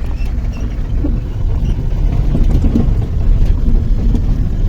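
Car running, heard from inside the cabin: a steady low rumble of engine and road noise with a few faint knocks.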